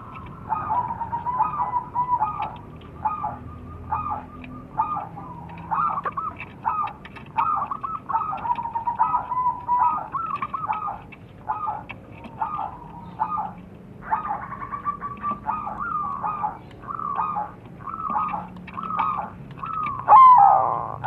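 Zebra doves (crossbred perkutut) cooing in their rhythmic, staccato song, several birds answering one another in quick repeated phrases. About twenty seconds in, a louder call with downward-sliding notes comes in.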